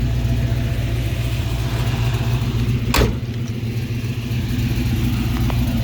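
Built 6.0 LQ9 V8 of a 1974 Pontiac Trans Am idling steadily through long-tube headers and a Magnaflow stainless exhaust. A single sharp click comes about three seconds in.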